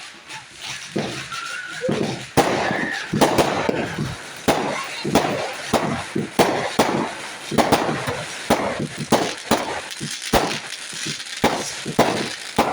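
Fireworks going off in a rapid, irregular string of bangs and cracks, starting about two seconds in and running on several times a second.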